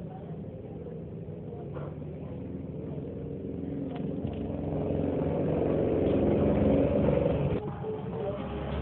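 A steady engine-like hum, growing louder toward the middle, with a few faint clicks.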